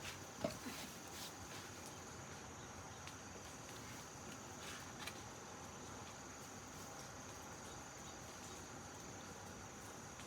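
Steady chorus of insects, a continuous high trill, with a few faint clicks or taps about half a second in and again around the middle.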